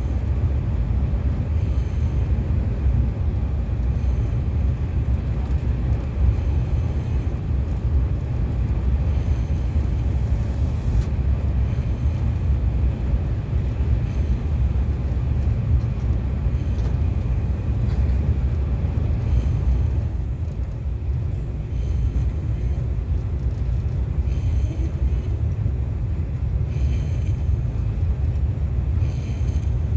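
KTX high-speed train running at speed, heard from inside the passenger car: a steady low rumble.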